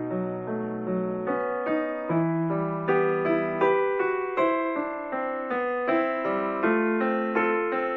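Background piano music, notes struck one after another in a gentle melody.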